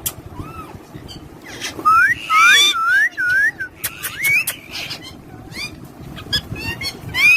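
Pet parrots whistling: a run of looping whistles that rise and fall, loudest about two to three and a half seconds in, among short clicks and chirps.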